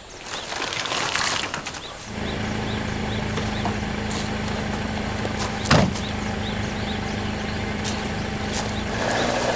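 A vehicle engine starts about two seconds in and then idles steadily, after some rustling and shuffling. A single sharp knock comes near the middle.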